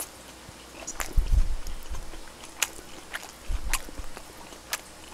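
A person chewing and biting a mouthful of grilled duck with chives, with irregular wet mouth clicks and low thuds.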